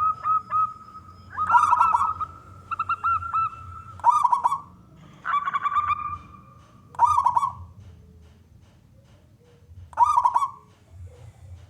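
Male zebra dove (perkutut) cooing: short stuttering coo phrases repeated about every three seconds, with a held note in the first few seconds.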